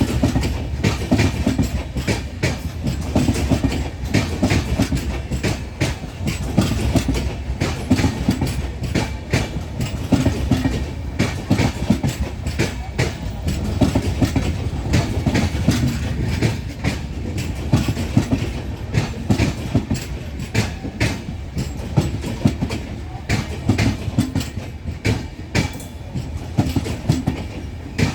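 Kamrup Express passenger train's coaches rolling along the track, with a continuous rumble and a steady run of clickety-clack as the wheels cross the rail joints.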